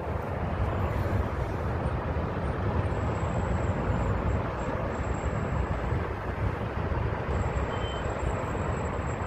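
Sandstorm wind rushing steadily and buffeting the microphone in a low, continuous rumble, with road traffic mixed in.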